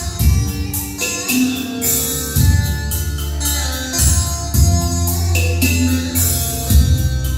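Recorded music playing through a hi-fi stereo system: a song with heavy bass, drums and tambourine.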